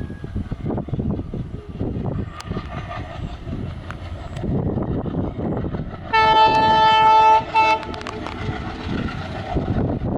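Train running with a steady rumble, and about six seconds in its locomotive horn sounds: one long blast of about a second and a half, then a short toot.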